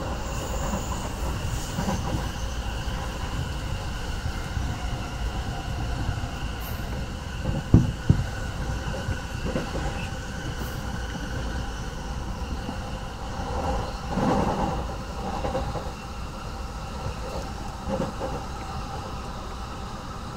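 Running noise of a Tohoku Shinkansen train heard from inside the passenger car: a steady rumble of wheels on rail with faint steady whining tones from the drive. Two sharp knocks come close together about eight seconds in.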